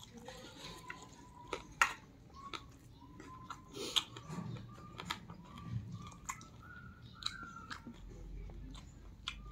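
A man chewing a mouthful of rice and meat close to the microphone, with scattered short wet clicks and crunches from biting and chewing.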